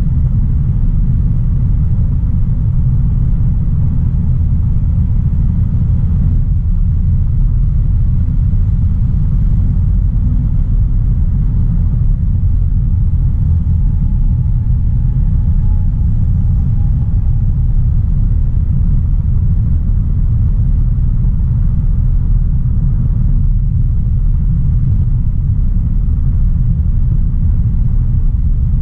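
Steady low rumble of a 2016 Audi A3 Sportback 1.4 TFSI on the move: its turbocharged four-cylinder petrol engine and road noise at an even, unchanging pace.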